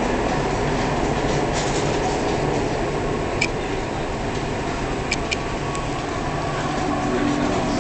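Dubai Metro train running, heard from inside the car: a steady rumble with three short clicks, one about three and a half seconds in and two close together about five seconds in.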